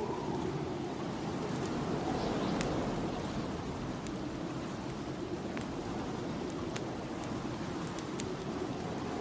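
Snowstorm wind blowing as a steady rush that slowly wavers in pitch, with a wood fire crackling in a fireplace: scattered sharp pops and snaps throughout.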